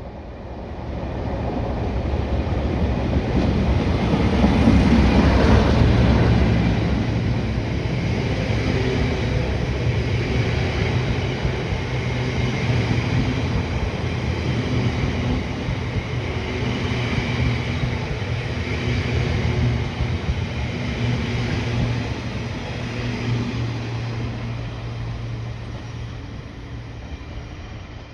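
Class 37 diesel-electric locomotive's English Electric engine running steadily as it passes, hauling a train. It is loudest a few seconds in, keeps up a long steady drone and fades near the end.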